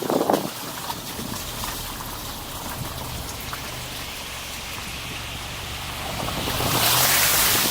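Steady road noise of tyres hissing on a wet, slushy road over a low engine hum. The hiss swells louder near the end.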